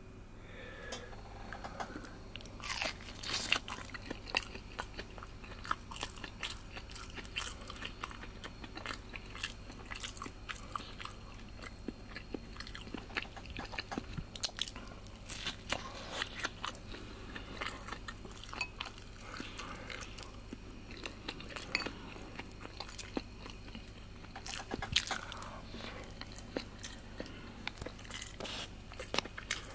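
A person biting and chewing a freshly deep-fried, breadcrumb-coated potato-salad ham cutlet over rice, with many sharp crunches of the crisp crust throughout.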